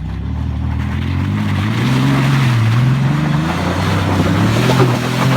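Dirt bike engine revving, its pitch rising and falling as it gets louder.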